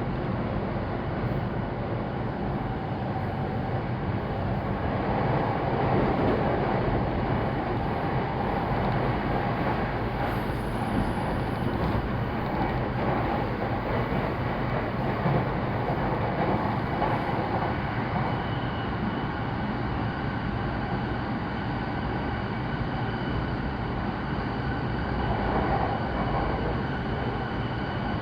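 Saikyo Line electric commuter train running at speed: a steady rumble of wheels on rail with a low hum. A faint high steady tone comes in about two-thirds of the way through.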